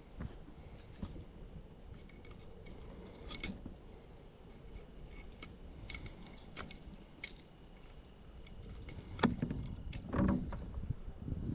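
Light clicks and small metallic rattles of fishing gear being handled in a kayak, with louder knocks and rustling about nine and ten seconds in.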